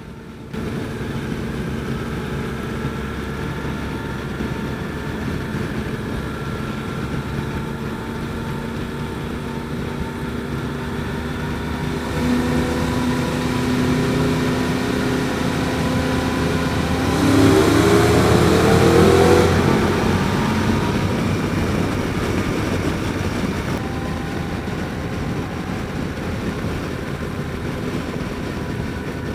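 Motorcycle engines running at road speed with steady wind and road noise. About seventeen seconds in, an engine revs up with a rising pitch for a couple of seconds, then eases back.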